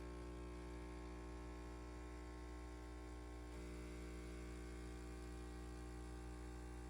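Faint steady hum with several held tones, whose pattern shifts about halfway through.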